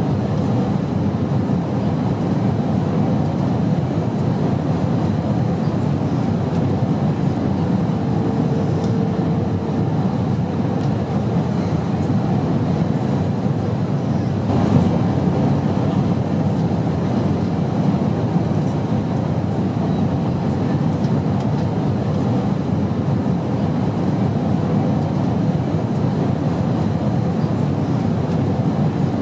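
Airliner cabin noise: a steady low rumble of engines and airflow. A faint steady tone rises out of it briefly about eight seconds in, and there is one soft knock about halfway.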